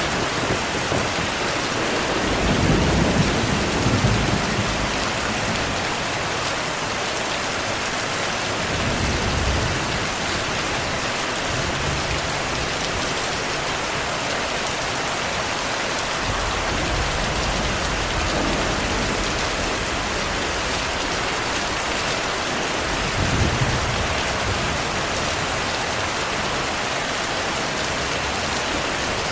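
Steady heavy rain, with low rolls of distant thunder coming and going; the strongest roll is about three seconds in, and another comes about two-thirds of the way through.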